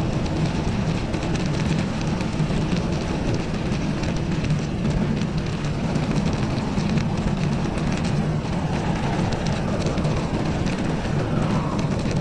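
Steady rumbling noise of riding a bicycle in winter: wind buffeting the microphone over the rolling of the tyres.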